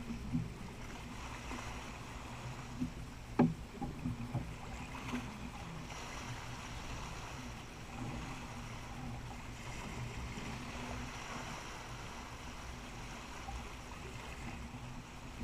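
Water rushing and sloshing along the hull of a sailboat under way, with a low rumble of wind and motion. A sharp knock about three and a half seconds in is the loudest moment, with a few lighter knocks around it.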